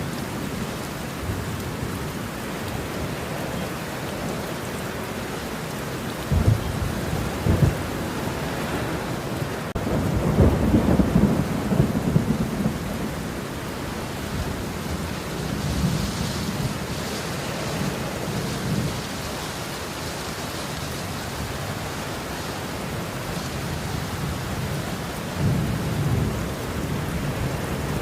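Steady rain falling, with rolling thunder rumbling several times; the longest and loudest roll comes about ten seconds in, with shorter rumbles before it and again near the end.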